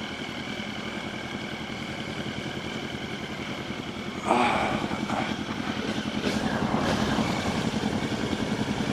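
Motorcycle engine running at low city speed, heard from the bike itself, getting louder about four seconds in as it pulls away.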